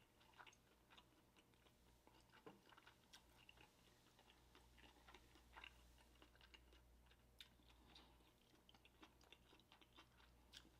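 Near silence with faint, scattered soft clicks of a person chewing a mouthful of steamed dumpling close to the microphone, over a low steady hum.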